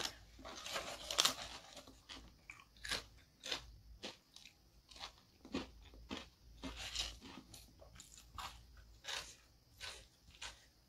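Close-miked eating sounds: a person biting and chewing crunchy food, fried chicken coating and raw vegetables such as cucumber, with irregular sharp crunches about every half second, thicker in the first couple of seconds.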